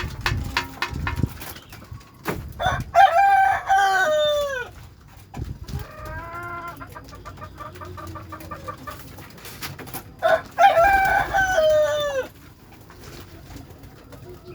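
A rooster crowing twice, about seven seconds apart, each crow a long held call that drops in pitch at the end, with softer, shorter fowl calls between the crows.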